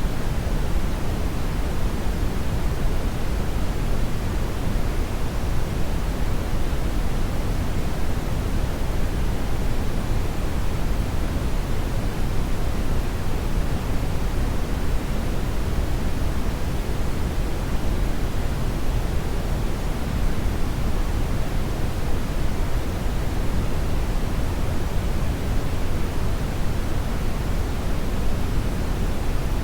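Hair dryer running steadily: an even, unbroken rush of air noise, heaviest in the low end, with no change in speed.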